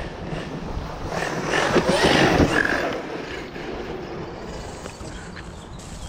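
Hyper MT RC monster truck driving over rough ground, a rushing, scrabbling noise that grows louder about a second in and eases off again after about three seconds as the truck passes close.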